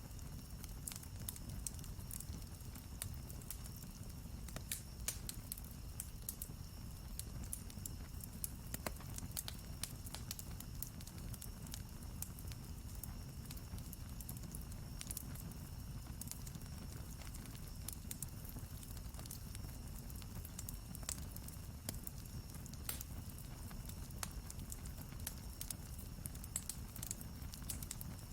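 Campfire burning with dense, irregular crackling and popping of the wood over a steady low rumble.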